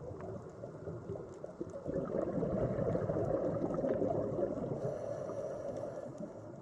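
Underwater ambience: a low, muffled rush of water noise that swells louder about two seconds in and eases off near the end.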